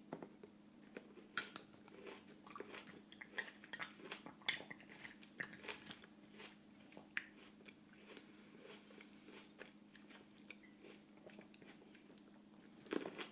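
Quiet, irregular crunching and crackling of crisp food being handled or bitten, a few sharper crunches among many small ones, over a faint steady hum.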